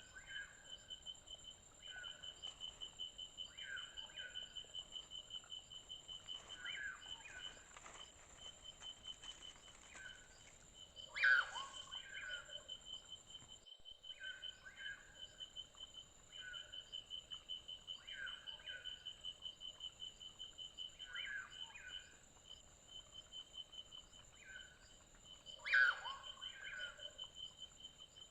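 Forest ambience: an insect trilling steadily in rapid even pulses, and a bird giving short calls every second or two, two of them louder and fuller, one near the middle and one near the end.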